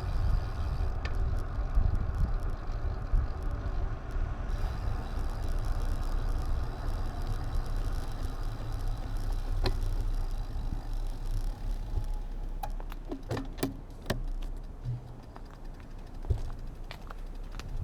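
Wind and road rumble on an action camera's microphone while riding, with a scatter of sharp rattling clicks in the last few seconds.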